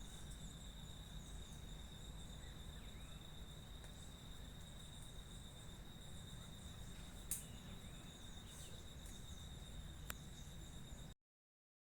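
Crickets or similar insects trilling in a steady, high, finely pulsing tone, over a low rumble, with two sharp clicks in the second half; the sound cuts off abruptly near the end.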